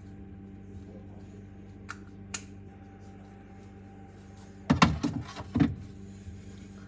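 Containers and items knocking and rattling as they are moved around inside a fridge: two light clicks about two seconds in, then a short burst of louder knocks about five seconds in, over a steady low hum.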